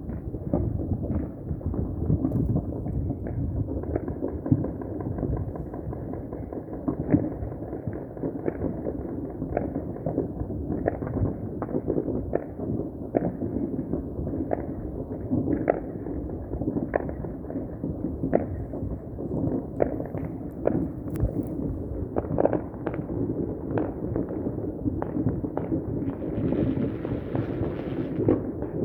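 Dense, continuous crackle of fireworks and firecrackers going off all around, many sharp pops on a steady rumble. A brief hissing rush near the end.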